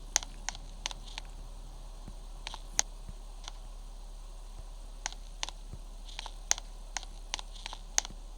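Footsteps on a hard floor: light, sharp clicks at a walking pace of about three a second, pausing briefly twice.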